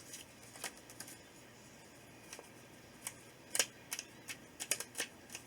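Paper stickers and cut-outs being handled and pressed into a paper planner: scattered sharp little clicks and snips, a few at first and then a quick cluster over the last couple of seconds.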